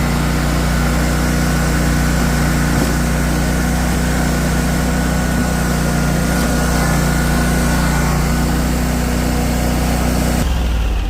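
Small engine of an old Multi-Force sidewalk machine running steadily at a constant pitch while plowing deep snow off walkways. It cuts off suddenly near the end.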